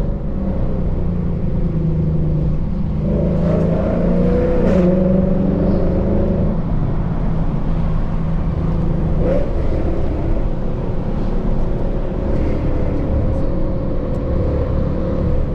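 Lexus RC F's 5.0-litre V8 with a tuned, full bolt-on exhaust, driving at steady part throttle. The engine note lifts briefly about three to five seconds in and again about nine seconds in, then settles back.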